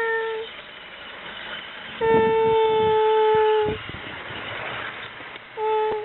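HO scale model passenger locomotive's horn sounding in blasts on one steady pitch. The tail of one blast ends just after the start, a long blast of nearly two seconds comes about two seconds in, and a short blast comes near the end.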